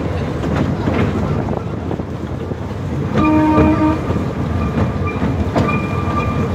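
Narrow-gauge train running along the track with a steady low rumble and occasional wheel clicks. About three seconds in, its horn sounds once for about a second as it approaches a road crossing. A thin, high, steady squeal comes in near the end.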